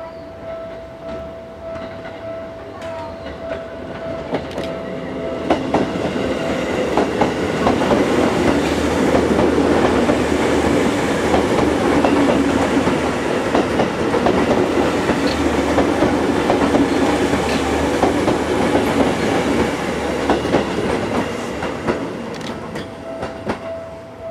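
Seibu 10000 series "New Red Arrow" limited-express train running past on the station tracks, its wheels clicking over rail joints and points. It grows louder over a few seconds, stays loud for about twelve seconds, then fades. A steady high tone is heard at the start and again near the end.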